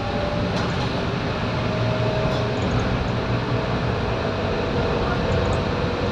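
Scania K230UB bus's five-cylinder diesel engine running steadily, with a faint whine that drifts slightly in pitch.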